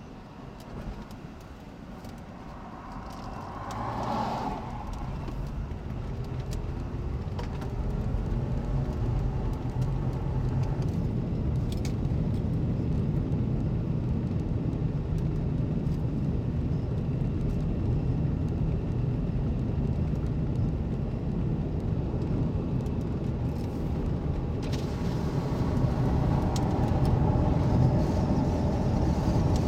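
A car driving, with a low engine and road rumble that builds over the first several seconds as it picks up speed, then holds steady.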